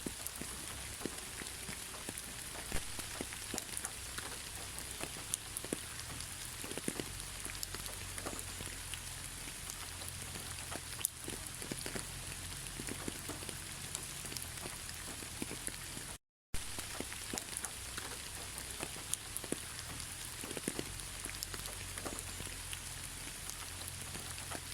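Steady rain falling, with many separate drops tapping through the even hiss. The sound cuts out completely for a moment about two-thirds of the way through.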